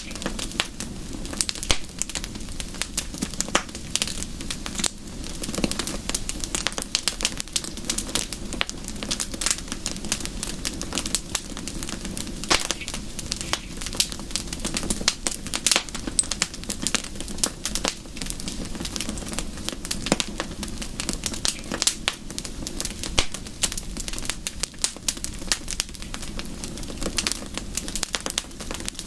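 Wood fire crackling, with frequent irregular sharp pops over a steady low rushing noise.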